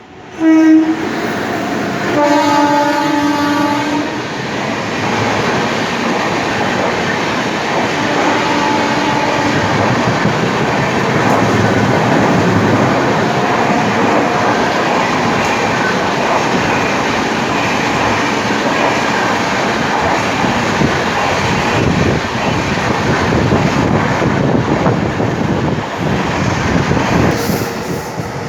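WAP-7 electric locomotive horn sounding twice, a short blast and then a longer one of about two seconds, followed by the steady rush and rattle of the Rajdhani Express coaches running through the station at speed without stopping.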